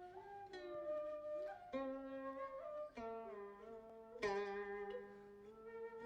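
Background music: a plucked string instrument playing a slow melody, each note struck and left to ring, several of them sliding in pitch.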